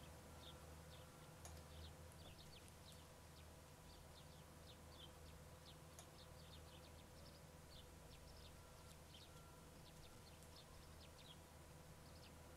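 Near silence: faint room tone with small birds chirping faintly and irregularly in the distance over a low hum.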